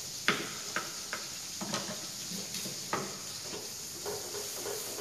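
Blended spice paste sizzling steadily in oil in a wok on a gas stove. A knife knocks sharply on a cutting board several times in the first three seconds while slicing palm sugar, and near the end a spatula stirs the paste in the wok.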